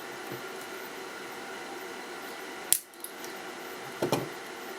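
Small metal tools handled on a workbench: a sharp click a little over halfway through and a softer knock near the end, over a steady background hiss.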